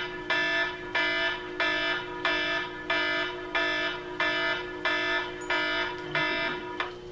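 Electronic alarm beeping in a steady, even rhythm, about eleven half-second beeps at a little over one and a half per second, stopping shortly before the end.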